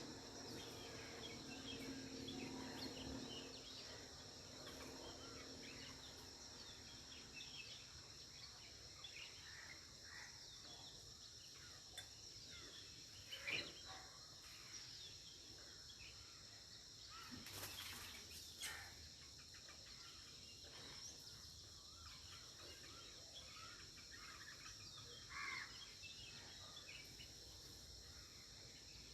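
Faint outdoor ambience: a steady high insect drone with scattered short bird chirps.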